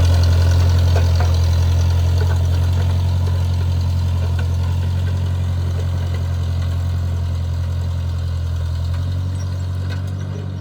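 Ford Jubilee farm tractor's engine running steadily with a deep, even hum, slowly getting quieter, the lowest rumble dropping away about nine seconds in.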